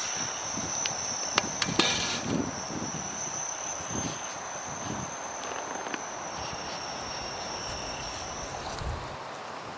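An insect's steady high-pitched trill, which cuts off near the end. A few sharp clicks about a second and a half in and some dull thuds in the first half.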